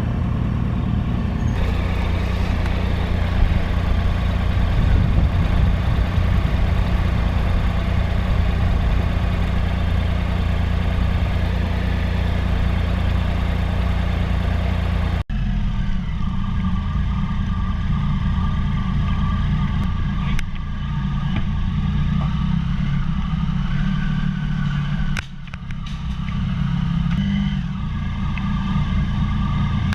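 Triumph Sprint ST 1050 motorcycle's three-cylinder engine running with a steady rush of wind and road noise. About halfway through the sound cuts abruptly to the engine at a lower, changing pace with a few clicks.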